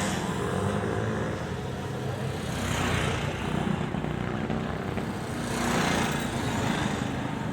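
Vintage motorcycle engines running as the bikes ride past one after another, with two passes swelling up and fading about three and six seconds in.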